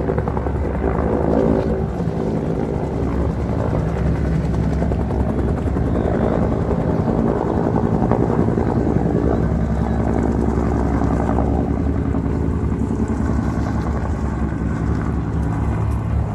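A large engine running steadily and loudly, a low even hum with a rougher rushing noise over it, as from an aircraft or helicopter engine close by.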